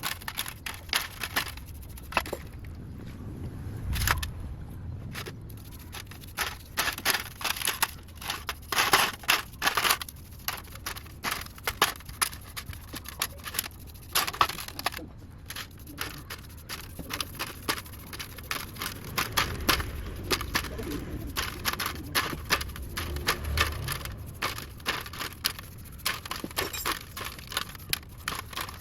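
Irregular clicks, knocks and scrapes of small hard parts and tools being handled, continuous and uneven with no steady rhythm.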